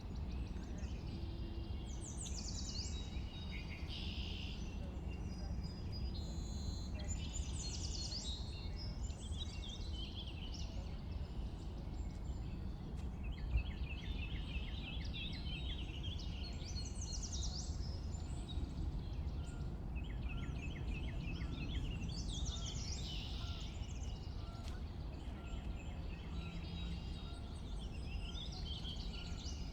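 Spring birdsong: a warbler and a sparrow singing repeated chirps and quick trills, with geese calling, over a steady low rumble. A single brief tap about halfway through.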